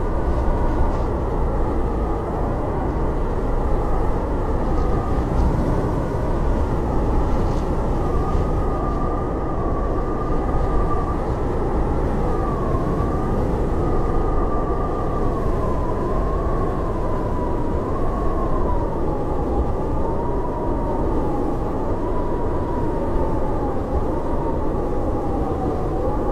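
Howling blizzard wind: a steady rush of wind noise with a whistling howl that slowly wavers up and down in pitch.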